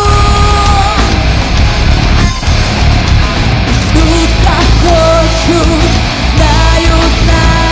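A rock band playing loud heavy rock live, with a dense low end under a melody of long held notes in the second half.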